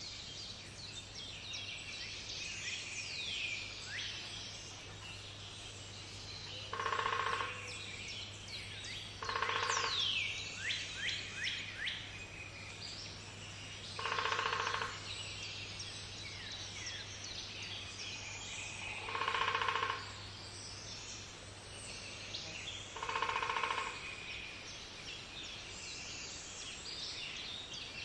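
A woodpecker drumming on wood: five short rolls, each under a second long, spaced a few seconds apart, over steady chirping and trilling of songbirds.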